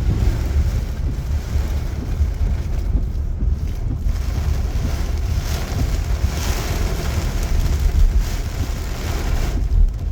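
Heavy rain with gusty wind, the wind buffeting the microphone in a steady low rumble that rises and falls.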